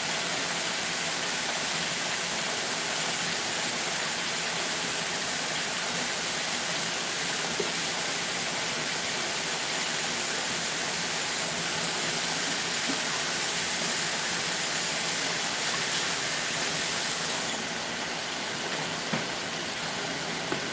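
Mustard-coated ribs frying in a pot of hot grease, a steady hiss, mixed with a tap running as hands are washed. The running water stops suddenly about 17 seconds in, leaving the quieter frying hiss.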